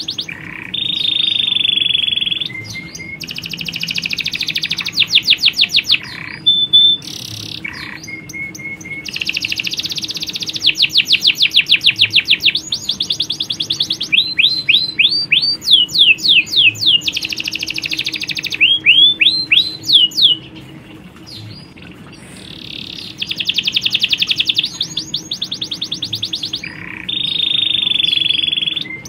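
A colony of domestic canaries, males and females, singing continuously: long fast rattling trills, held whistled notes, and runs of quick upward-sweeping notes. A faint steady low hum lies underneath.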